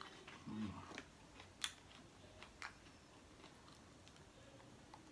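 Faint crunching of a raw spring onion being bitten and chewed, with a few crisp snaps, the sharpest just over a second and a half in. A short hum from the eater about half a second in.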